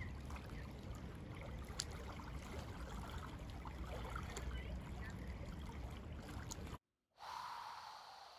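Wind buffeting an outdoor microphone: a steady low rumble with faint high chirps over it. It cuts off abruptly about seven seconds in, and a short steady tone follows.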